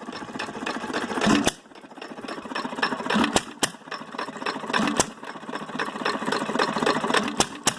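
Hit-and-miss stationary engine running: a loud firing stroke every one to two seconds at uneven intervals, with a fast mechanical clatter as it coasts between firings, its governor holding the exhaust valve open on the missed strokes.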